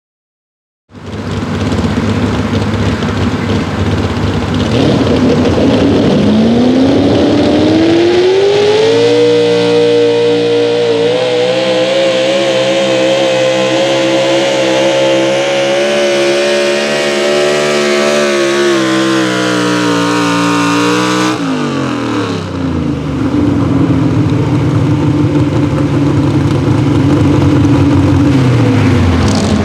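Pro Stock four-wheel-drive pulling truck's engine under full throttle during a pull: revs climb over a few seconds, hold high with a wavering pitch as the load works against it, then drop abruptly about two-thirds of the way through to lower running, easing off again near the end.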